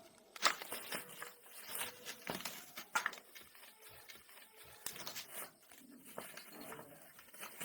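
Irregular light clicks, knocks and scrapes of hand work on small metal parts, with sharper knocks about half a second in and near 3 s.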